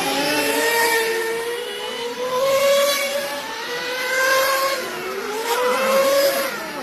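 Several RC motorcycles' motors running on a race track, their pitch rising and falling over and over as the bikes accelerate and slow through the course.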